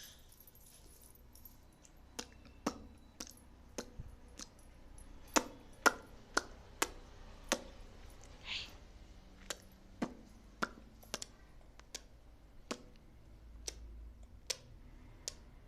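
A baby making a series of sharp clicks, irregularly spaced at about one or two a second, with a short breathy hiss about eight and a half seconds in.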